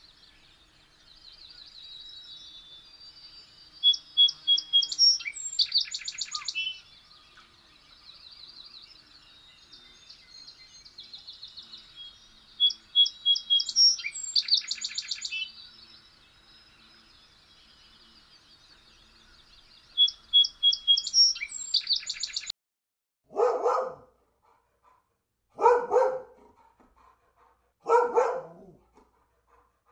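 Small birds chirping and trilling in repeated high phrases for most of the stretch. Near the end, a dog barks three times, about two and a half seconds apart.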